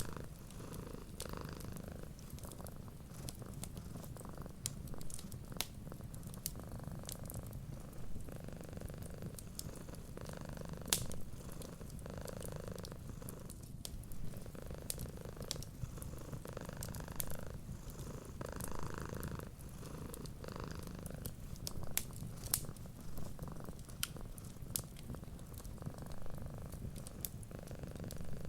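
Domestic cat purring steadily, each purr swelling and easing with its breaths, over the light popping and crackling of a wood fire.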